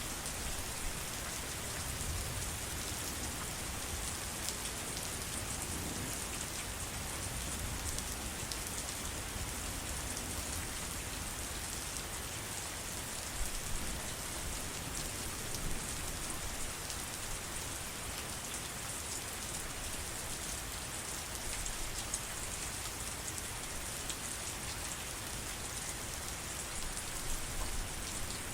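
Steady heavy rain falling, a dense even hiss with scattered drop ticks and a low rumble underneath.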